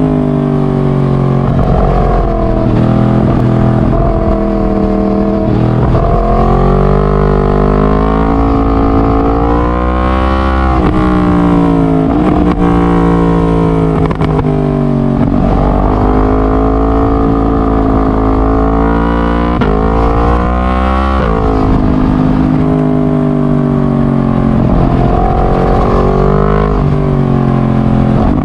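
Yamaha MT-10's crossplane inline-four (CP4) engine running loud through a decatted straight-pipe exhaust. Its engine speed climbs and then drops back again, over and over.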